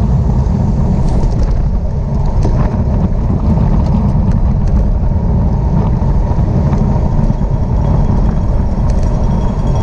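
Steady wind rush buffeting the microphone of a camera on a bicycle moving at racing speed, with a few faint clicks over it.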